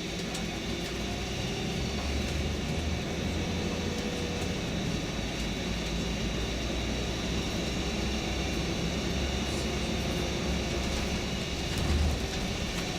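Tour coach driving along, heard from inside the cabin: a steady low engine and road rumble, with a brief louder thump near the end.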